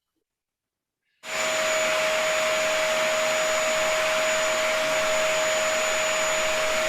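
Vacuum cleaner switching on about a second in and running steadily: an even rushing hiss with a steady motor whine and a thin high tone over it.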